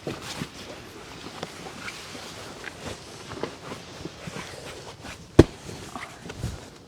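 Irregular light taps and scuffs like footsteps and things being handled, with one sharp knock about five and a half seconds in.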